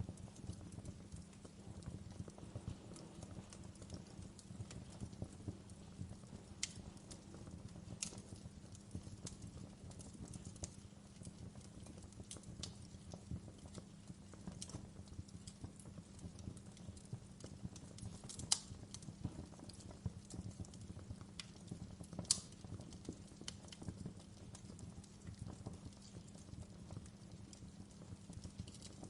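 Wood fire burning with a steady low rumble and scattered sharp crackles and pops; the two loudest pops come about two-thirds of the way through.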